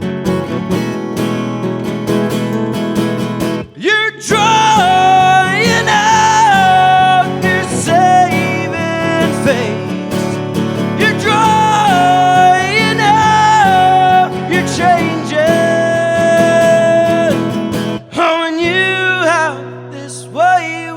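Acoustic guitar strummed steadily in a live solo performance. From about four seconds in, a held, bending lead melody rises over it, with wordless singing or a similar lead, and fades near the end.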